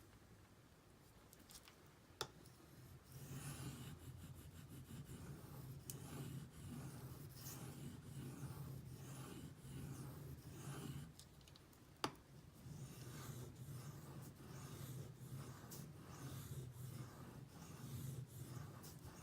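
Steel knife blade (a D2 Benchmade Griptilian) being stroked back and forth across a Shapton Pro 5000 grit sharpening stone: a soft, steady run of scraping strokes, broken by a short pause and a sharp click about twelve seconds in, with another click before the strokes begin.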